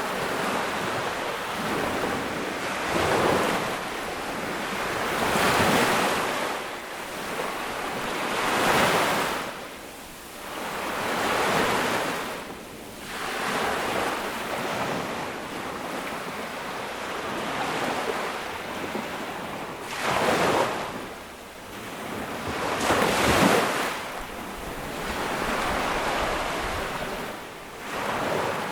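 Sea waves breaking and washing up on a beach, in repeated swells of surf every few seconds, with wind noise underneath.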